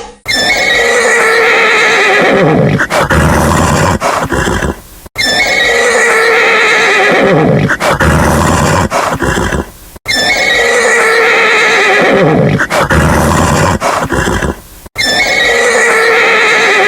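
A horse neighing: the same whinny, a long shaky pitched call that sinks at the end and trails into low pulses, repeats four times about five seconds apart, with short silent gaps between.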